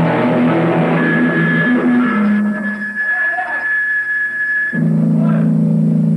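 Heavy metal band rehearsing: distorted electric guitar chords held and left to ring. A high steady tone sits over them for a few seconds, and a loud held chord comes back in about five seconds in.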